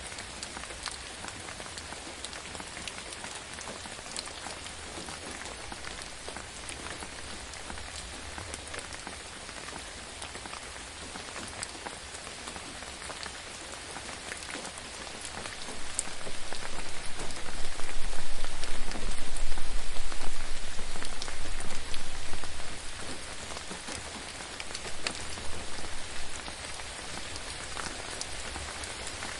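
Steady gentle rain falling on a surface, with scattered drop ticks. About halfway through, a deep low rumble swells for several seconds and fades, with a shorter one a little later.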